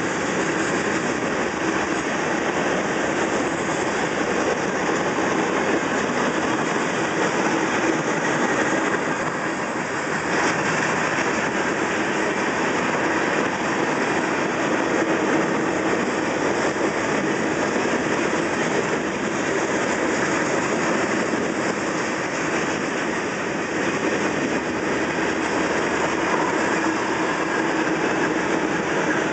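Freight cars of a long freight train (boxcars, covered hoppers and gondolas) rolling steadily past a grade crossing, the unbroken noise of steel wheels running on the rails.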